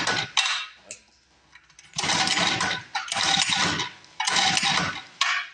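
Recoil pull-starter on a mini bike's small engine being yanked over and over, about four quick pulls after the end of one before, each a rasping whir about a second long. The engine does not fire, because the spark plug wire has been left off.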